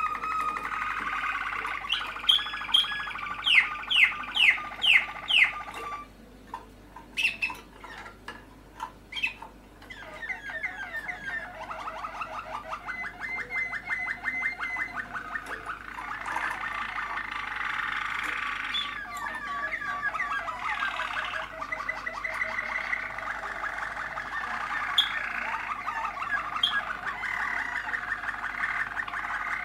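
Young Malinois (Waterslager) canaries singing: a run of about six rising whistled notes early on, a quieter stretch of sharp chip notes, then long rapid rolling trills.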